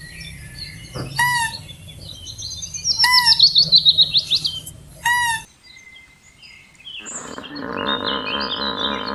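Birds calling: a curved call repeats about every two seconds, with a rapid falling trill between three and five seconds in. After a brief pause, high chirps start over a steady, dense drone.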